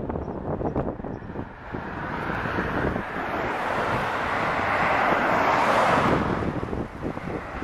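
Road noise and wind on the microphone from a moving car. A rush of noise builds from about two seconds in to a peak near six seconds, then falls away.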